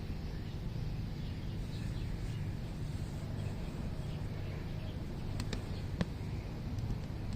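Birds chirping faintly over a steady low rumble, with a few sharp clicks about five and a half to six seconds in.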